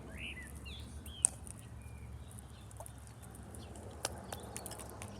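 A few short bird chirps in the first second, then scattered sharp clicks and ticks, the loudest a little over a second in.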